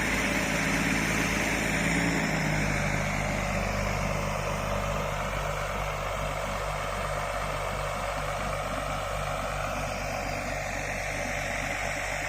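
Diesel engine of an IVECO 420 6x6 truck running steadily as it pulls a trailer loaded with a wheel loader uphill. The engine note shifts lower about two seconds in.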